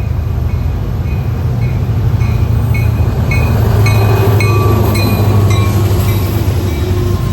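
Diesel locomotive engine running loud and steady as a train passes close by, with a bell ringing about twice a second that fades out near the end.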